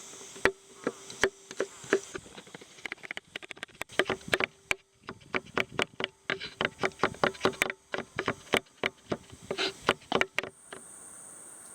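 A knife chopping on a wooden cutting board in a long run of sharp knocks, slow at first and then quicker, about four or five a second. The chopping stops near the end, leaving a faint steady hiss.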